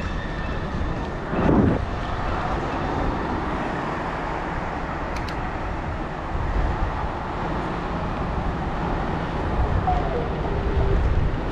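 City street traffic heard from a moving bicycle, with low wind rumble on the microphone; a vehicle goes past with a falling pitch about a second and a half in.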